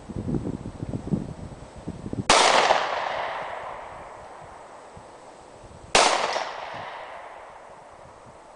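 Two shots from a Springfield Armory XD 9mm semi-automatic pistol, about three and a half seconds apart, each followed by a long echo that dies away. Wind rumbles on the microphone before the first shot.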